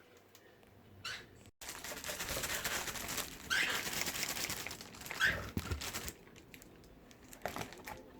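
Rustling and crinkling of a packaging bag being handled, with two short, louder bursts about three and a half and five seconds in.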